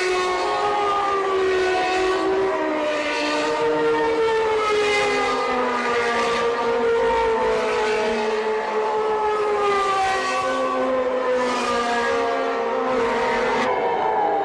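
Several 1989 Formula One cars' naturally aspirated 3.5-litre engines running together at high revs, their pitches falling and rising in waves through gear changes and throttle. The sound changes abruptly near the end.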